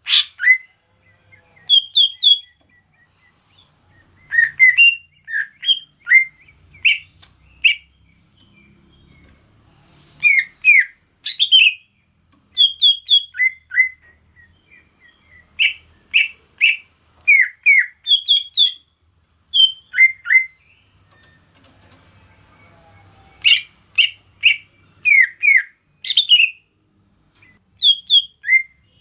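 Green leafbird (cucak ijo) singing in short bursts of quick, clear whistled chirps. Each phrase has two to four notes, with brief pauses between them and one longer pause of about two seconds past the middle.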